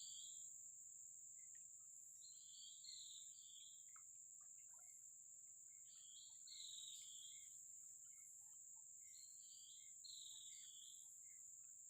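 Steady, high-pitched drone of insects such as crickets, with a faint chirping call repeating every three to four seconds.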